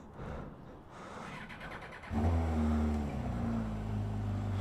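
An engine fires up about halfway through, settles slightly and then runs at a steady idle.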